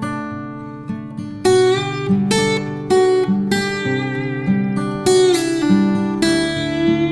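Background music: an acoustic guitar playing picked notes, with louder struck chords every second or so that ring out and fade.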